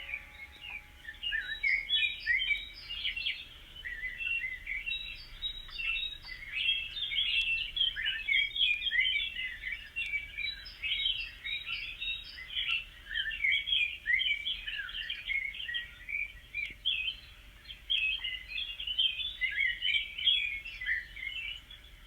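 Many small birds chirping at once in a dense, continuous chorus, with quick runs of short higher notes now and then.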